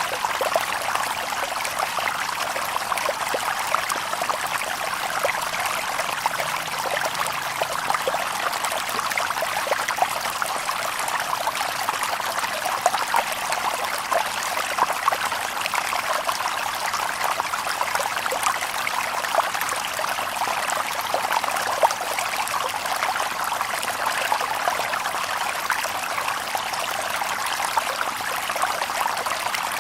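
Shallow stream babbling and trickling over stones, a steady bright splashing with no birds.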